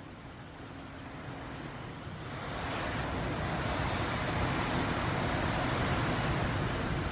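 Typhoon-force wind rushing past a building, rising in a strong gust about two and a half seconds in and staying loud.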